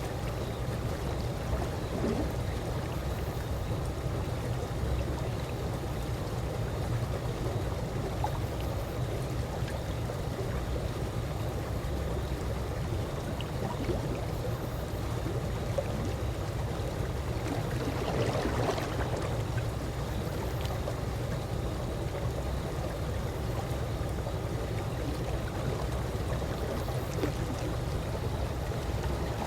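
Calm swimming-pool water lapping and sloshing gently and steadily, with one slightly fuller lap about two-thirds of the way through.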